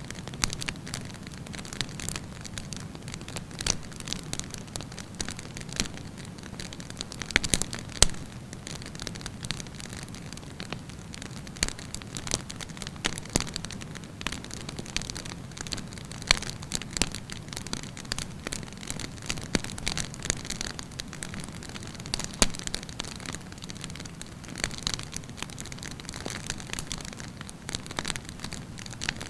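Wood campfire burning, a steady low rumble and hiss with irregular crackles and occasional sharper pops.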